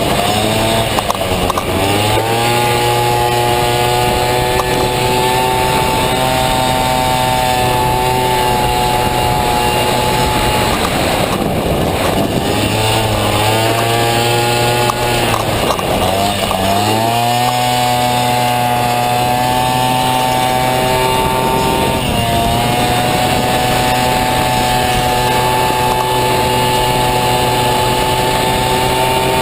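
Honda Dio two-stroke scooter engine in a Honda Motocompo, running hard at a steady high pitch. The pitch sags and climbs back three times: just after the start, for several seconds around the middle, and once more about two-thirds of the way through.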